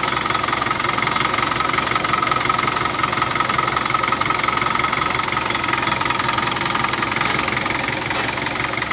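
Engine idling steadily, with a steady high-pitched whine over the running.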